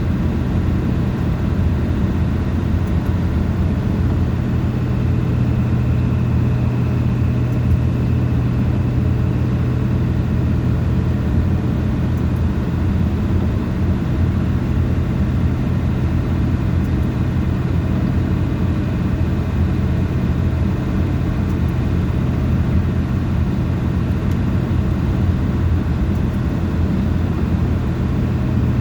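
Steady engine and road drone of a moving vehicle, heard from inside, with a strong low hum that holds even throughout.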